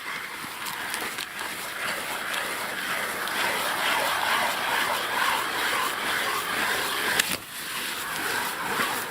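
Hand ice auger boring a fishing hole through river ice: a continuous grinding scrape of the blades cutting ice, with a couple of sharp clicks near the end as the hole is finished.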